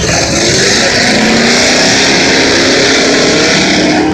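Engines of several rear-wheel-drive race cars running hard at speed in a figure-8 race, loud, their pitch rising and falling as they accelerate and pass.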